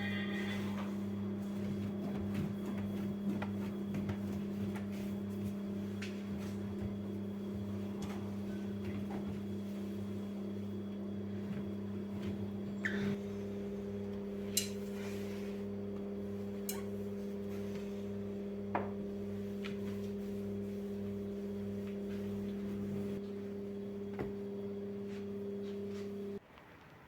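Steady electric appliance hum that cuts off suddenly near the end, with a few light clicks and knocks over it.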